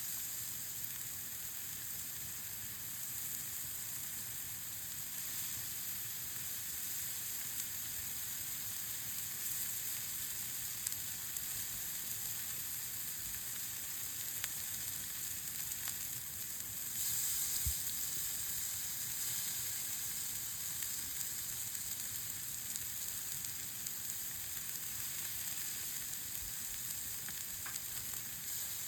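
Meat sizzling as it cooks over a campfire: a steady hiss that grows a little louder about two-thirds of the way through, with an occasional faint tick.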